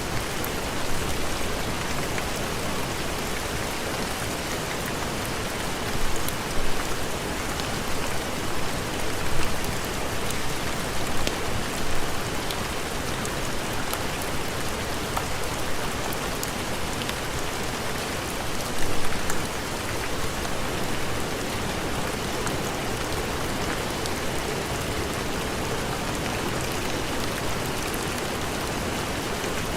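Steady heavy rain, an even hiss with scattered sharp ticks, swelling briefly louder a few times.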